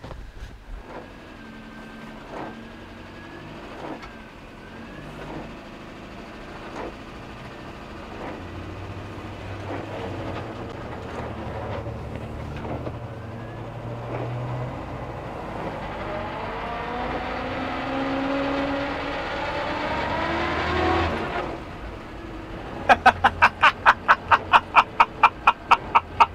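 1966 Morris Minor's four-cylinder A-series engine pulling away on the road, its pitch climbing steadily as the car accelerates, then dropping back about 21 seconds in. Near the end comes a fast, even run of loud sharp pulses.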